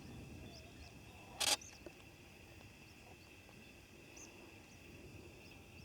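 Faint steady high-pitched chirring of insects such as crickets or grasshoppers, with a few faint higher chirps. A single brief rustle comes about a second and a half in.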